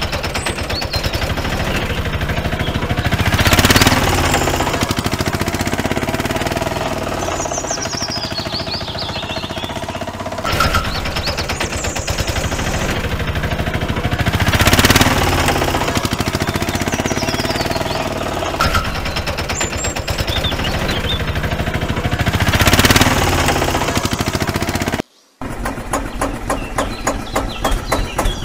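Engine running with a fast, even chugging, swelling louder three times. About 25 seconds in it cuts out briefly, and a slower chugging of about three beats a second follows.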